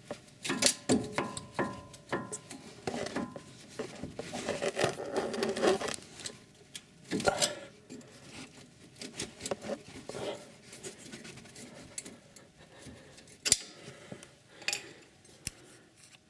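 Screwdriver prying and scraping at the steel clamp of a front anti-roll bar bushing, with irregular metallic clicks, knocks and scrapes as the tight clamp is levered at.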